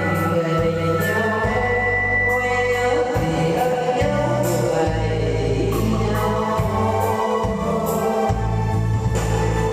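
A song sung over a backing track with a steady bass line and percussion.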